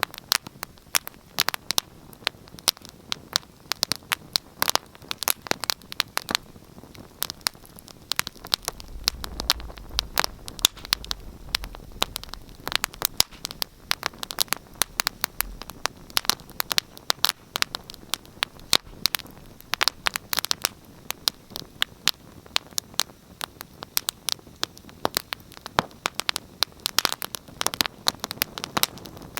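Wood fire crackling in a fireplace, with frequent irregular sharp pops and snaps over a soft steady hiss.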